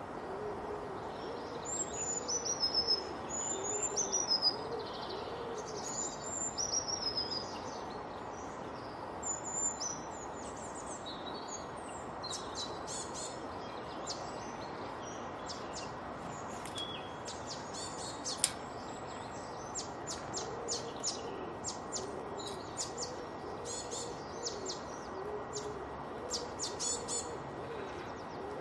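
Several wild birds singing. High whistled, falling phrases come first, then many quick high chips, over a low, repeated hooting call and a steady background hiss.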